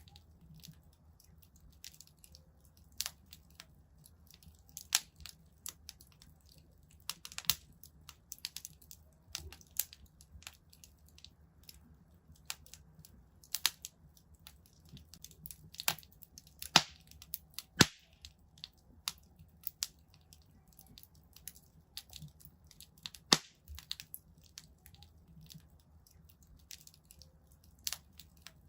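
Wood fire in a fireplace crackling: irregular sharp pops and snaps, a few of them loud, over a faint low rumble.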